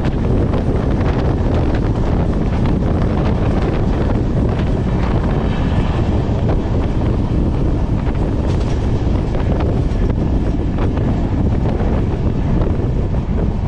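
Passenger train running, heard from on board, with wind buffeting the phone's microphone in a loud, steady rush.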